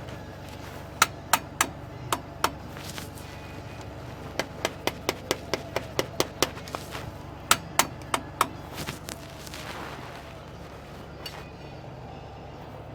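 Hammer striking metal, about twenty ringing blows in three quick runs of several hits each, stopping about nine seconds in, over a steady low hum.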